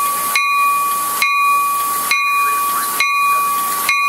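Railroad bell ringing steadily, struck about once a second, over a continuous hiss and a steady high tone.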